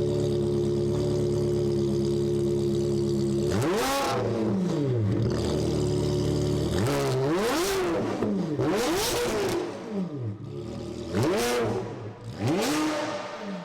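Ferrari 360's 3.6-litre V8 through a loud custom exhaust, held at steady raised revs for a few seconds, then blipped five times, each rev rising sharply and falling back.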